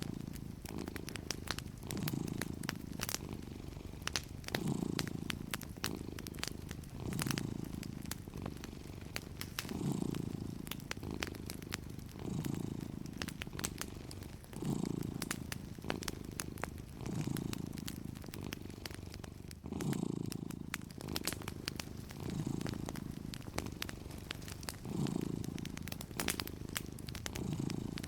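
Domestic cat purring steadily, swelling and easing with each breath about every two and a half seconds, with the scattered crackles and pops of a wood fire throughout.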